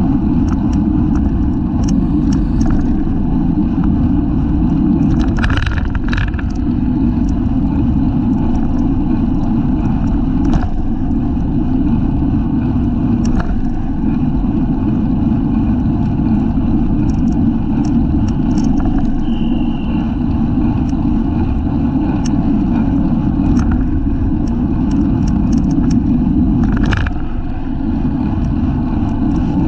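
Wind buffeting a bicycle-mounted camera's microphone at racing speed, a loud steady rumble, with a few short ticks and rattles from the bike.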